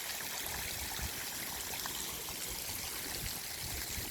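Steady rushing of running water, with some low irregular rumble underneath.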